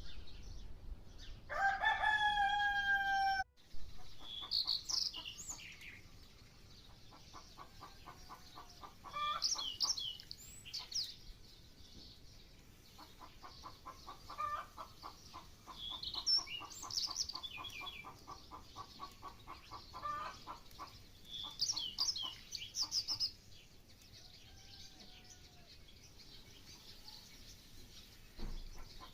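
A rooster crows once near the start, one held call of about two seconds. After it a small songbird repeats a short, high chirping phrase about every six seconds, with long runs of quick, low pulsed calls like hens clucking in between.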